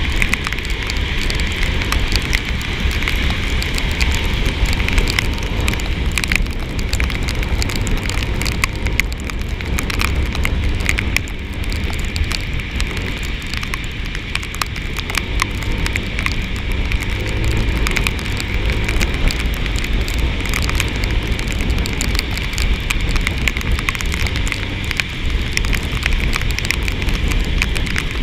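Rain pattering and crackling close by, with many small drop hits, over a steady low rumble from a Yamaha NMAX scooter riding in the wet.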